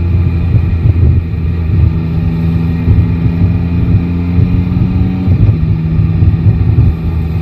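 Yamaha Tracer 9 GT motorcycle's inline three-cylinder engine running at steady revs, heard from the rider's seat. The engine note changes slightly about five seconds in.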